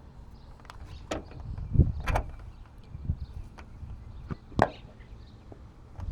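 Scattered knocks and clicks of metal parts being handled while fitting a tailgate gas strut and its ball stud, about five in all. The loudest is a dull thump about two seconds in, over a low rumble.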